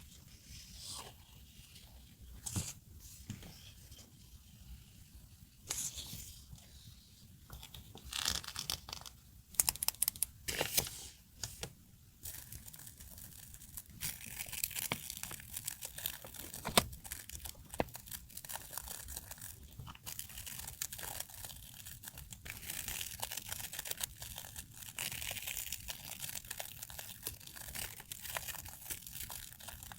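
Paper and plastic stationery packaging handled close up, crinkling and tearing: scattered crackles and rips in the first half, then steady rustling from about halfway.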